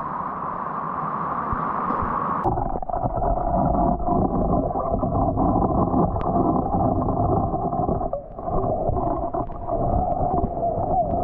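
Muffled river water rushing and gurgling, its sound changing abruptly about two and a half seconds in.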